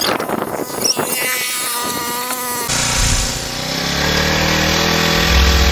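A small engine running steadily. It cuts in abruptly about halfway through and grows louder toward the end.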